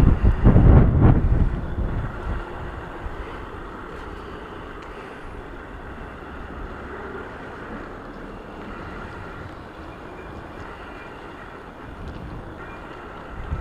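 Wind buffeting the microphone hard for the first second or two, then a steady rush of wind and tyres on a wet road as the e-bike rides along, with one more short gust near the end.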